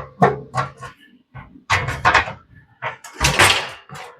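A string of short knocks and clanks from aluminum pieces and a weight being handled and set down on a workbench, the loudest about three seconds in.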